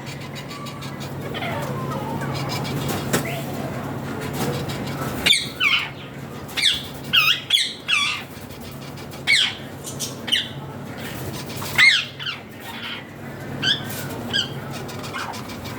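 Ring-necked parakeets giving short, sharp squawking calls, about a dozen scattered from a third of the way in, over a steady low hum.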